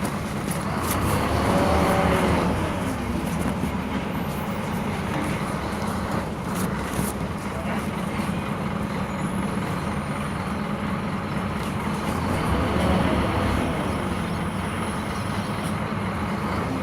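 Diesel engine of a Scania K230 city bus with a ZF automatic gearbox running steadily. It swells twice, about a second in and again near the end, and each time a whine sweeps up and back down in pitch as the bus accelerates.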